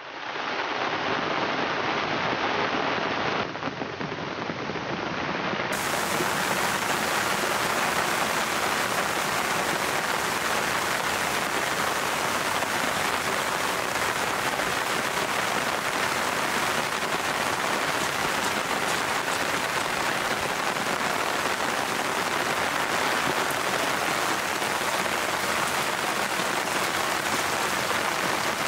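Heavy rain pouring down steadily, an even hiss that fades in at the start.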